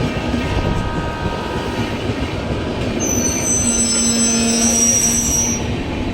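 Train rolling on the rails with a steady low rumble; about halfway through, its wheels begin a high-pitched squeal of several thin tones that stops shortly before the end.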